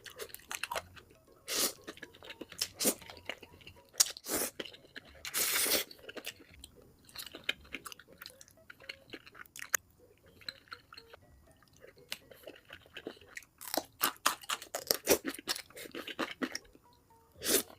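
Close-miked mukbang eating of spicy ramen with kimchi and fried eggs: wet chewing and crunching in irregular bursts, with quieter stretches in the middle.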